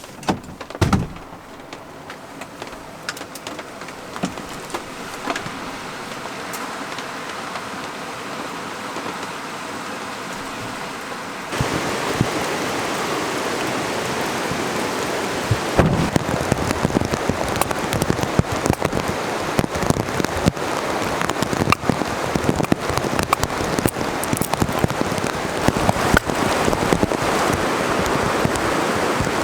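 Heavy rain falling steadily, a dense patter of drops striking surfaces. About a third of the way through it becomes suddenly louder. A single knock sounds just after the start.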